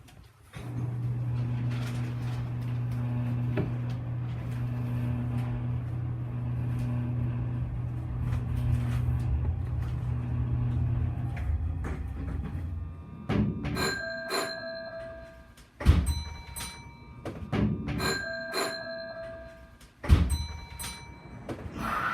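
Hanshin train's electric signal bell (電鈴) ringing in three rapid trills, the first about 13 seconds in, with a sharp thump before the second and the third. Before the bell, a steady low hum with a faint pulsing tone.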